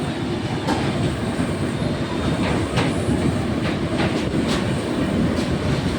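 Train running along the track: a steady low rumble with irregular sharp clicks of the wheels over rail joints.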